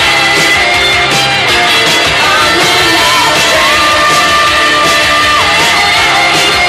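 1980s gothic rock band playing, with drums, guitar and a singing voice; a long note is held about halfway through.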